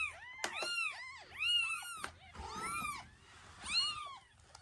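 Newborn kitten mewing, about five or six short, high-pitched cries, each rising and falling in pitch.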